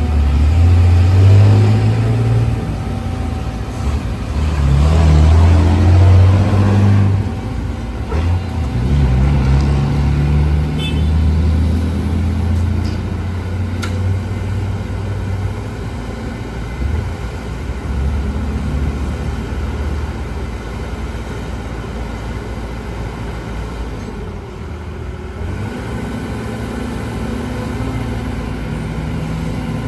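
Caterpillar 313GC excavator's diesel engine working under hydraulic load. It surges and rises in pitch several times over the first half, then settles into steadier running.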